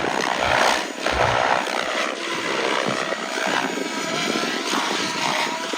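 Large radio-controlled model helicopter flying, its motor and rotors running steadily with a faint whine.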